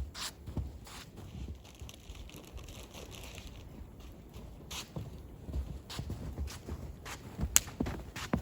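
Irregular crunching footsteps in snow, with sharp snaps and rustles; the loudest snap comes near the end.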